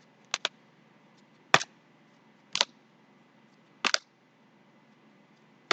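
A series of sharp clicks, some doubled, about one every second.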